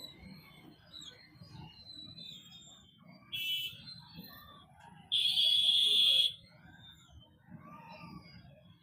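Vehicle horns honking in slow, jammed street traffic: a short honk about three seconds in, then a louder, harsh honk held for about a second, over a low steady hum of engines.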